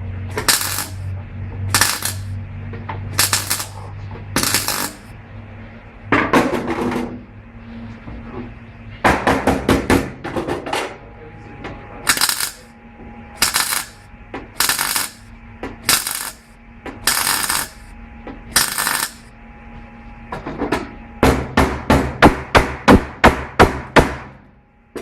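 Hammer blows on metal during repair work on a GAZelle van. The blows come singly, about one every second or so, with some quick doubled strikes. Near the end comes a fast run of about a dozen blows at roughly three a second.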